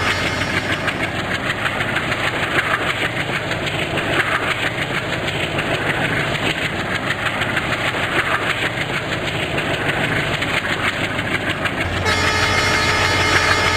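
A train passing at speed, its wheels clattering rapidly over the rail joints. The clatter stops about twelve seconds in and a steady hum is left.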